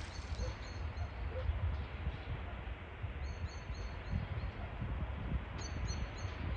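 Outdoor ambience with a steady low rumble, over which a small bird gives short high chirps in three brief series, about half a second in, around three seconds in and near the end.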